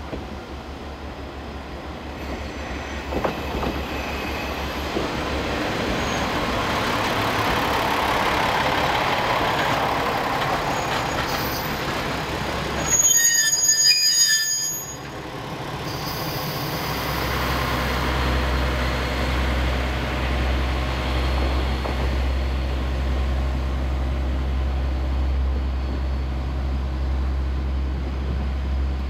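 Freight train hauled by a DD51 diesel-hydraulic locomotive running past, with wheel noise and squeal on the rails. About thirteen seconds in comes a short, louder burst holding several steady tones, followed by a steady low hum.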